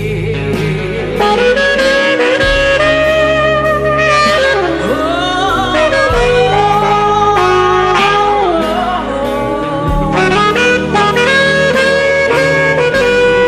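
Saxophone solo in a slow blues song, a bending, gliding melody line over band backing with a steady bass and drum beat.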